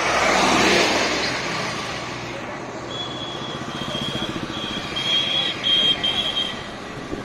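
Tractor engines running as tractors pass on the road, with a louder passing swell in the first second. From about three seconds in, a high shrill tone sounds in a series of short blasts.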